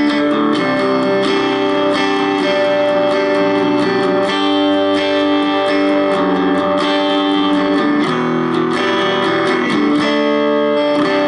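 Electric guitar played at low volume through a boost, a compressor and a Hehku tube preamp with EF86 tubes into a 1-watt Palmer amplifier. Chords and picked notes ring on and change every second or two, the tubes giving a strong, dirtier tone.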